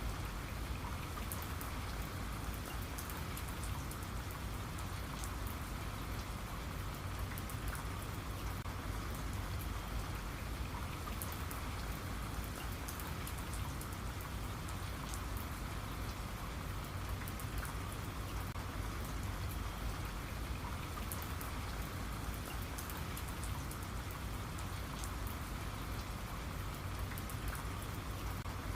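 Steady rain falling, with many fine drop patters over an even hiss.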